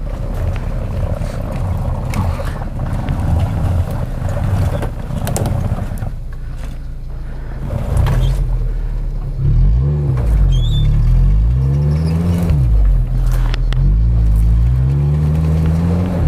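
Off-road SUV engine working hard on a steep snowy climb, running steadily under load at first. From about nine seconds in it is revved up and down again and again.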